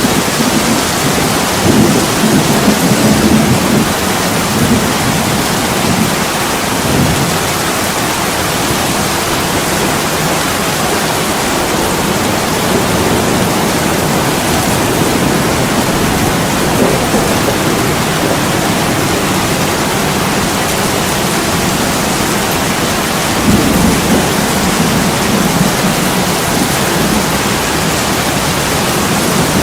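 Heavy rain falling steadily on a window, with low rumbles of thunder swelling during the first few seconds and again about three-quarters of the way through.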